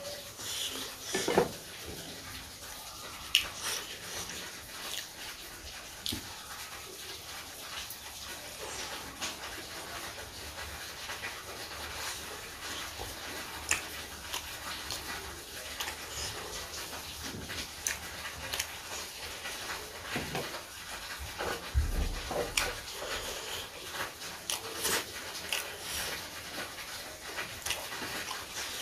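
Close-miked eating sounds: a person chewing, with irregular wet clicks and smacks of the mouth and a brief low thump near the end.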